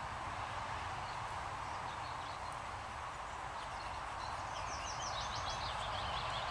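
A songbird sings a quick run of repeated falling notes from a little before five seconds in, over a steady rushing background noise.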